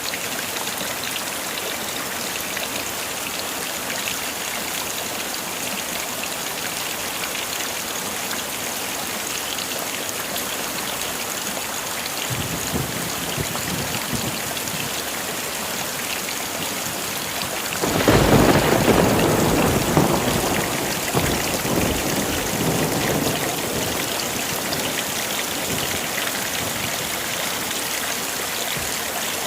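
Heavy rain falling steadily. A faint rumble of thunder comes about twelve seconds in, then a loud thunderclap at about eighteen seconds that rolls on and fades over several seconds.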